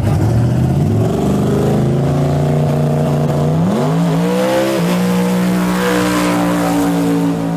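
A truck's engine at full throttle accelerating down a drag strip, its pitch climbing in steps and then holding a steady high note.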